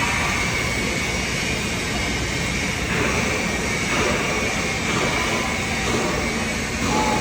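TIG (argon) welding arc burning steadily as a pass is run on a pipe-to-flange joint, an even, unbroken hiss.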